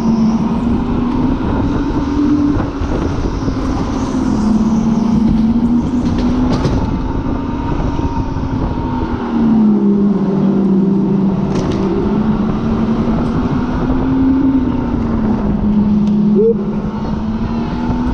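Supercharged car engine running hard on a race track lap, its note rising and falling several times through acceleration and lifts, with a brief drop in level about sixteen seconds in.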